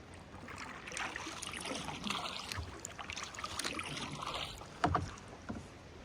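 Kayak paddle dipping and splashing in the water in two strokes, then a sharp knock about five seconds in and a lighter one just after.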